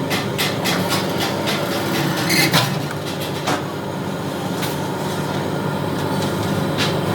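Machine-shop noise during steel fabrication: a steady low machine hum with irregular metallic knocks and clanks, a louder cluster about two and a half seconds in.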